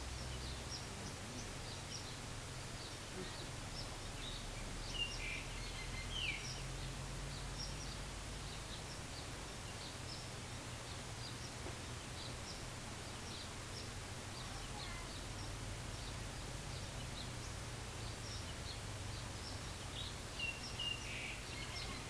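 Birds chirping: many short high calls scattered throughout, with a few louder calls about five and six seconds in and again near the end, over a steady hiss and low rumble.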